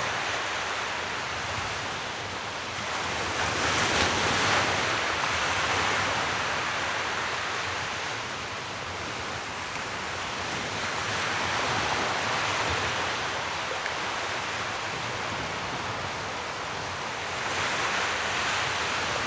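Sea surf: a steady hiss of waves that swells about every six or seven seconds as a wave breaks and washes in.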